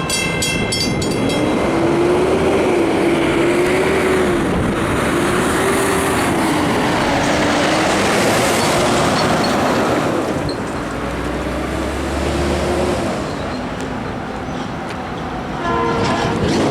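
Train passing close by at a grade crossing: a loud, steady rush of rail noise with a wavering tone through the middle. The locomotive's horn chord ends about a second in and sounds again briefly near the end.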